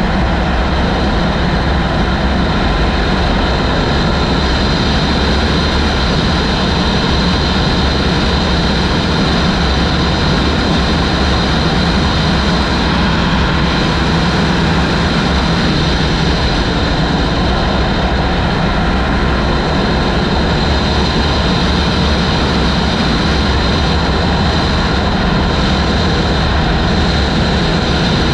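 Loud, steady wind noise buffeting the microphone of a motorcycle riding at speed, with the engine's drone underneath.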